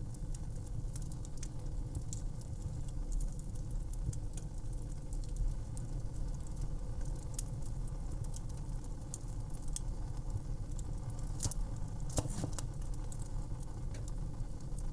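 Wood fire crackling: a steady low rumble of burning with frequent small sharp pops and snaps, a few louder pops about eleven to twelve seconds in.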